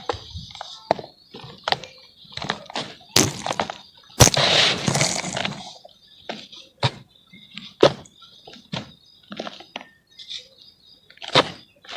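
Charcoal crumbling in water: a string of sharp, irregular cracks and crunches, with a longer crumbling burst about four seconds in.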